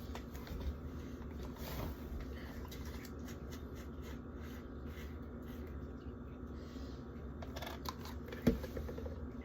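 Faint rustling and clicking of plastic food packaging and a bottle being handled, with one sharper knock near the end.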